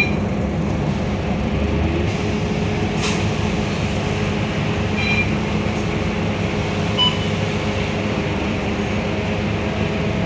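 Scania K230UB bus's 9-litre five-cylinder diesel engine and road noise running steadily under way, with a few short high chirps or squeaks near the start, about five seconds in and about seven seconds in.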